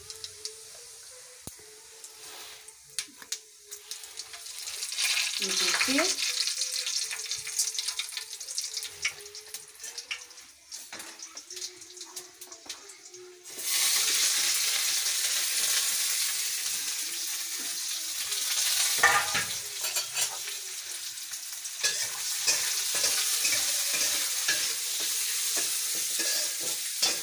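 Onion frying in hot oil in a metal kadhai: a lighter sizzle that jumps abruptly to a loud, steady sizzle about halfway through as the onion goes into the oil. A spatula clicks and scrapes against the pan as it is stirred, with one sharper clank.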